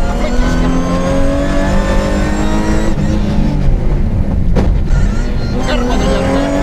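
BMW 323i's straight-six engine heard from inside the cabin under hard acceleration. Its pitch climbs steadily, drops back a little after three seconds and again about five seconds in, then climbs once more. There is one sharp knock in between.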